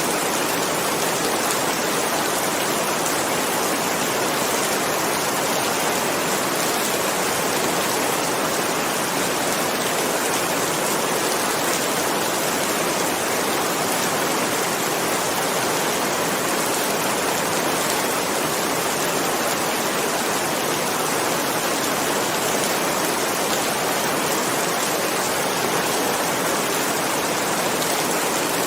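Rain falling steadily, an even hiss that holds at one level throughout, with no thunder.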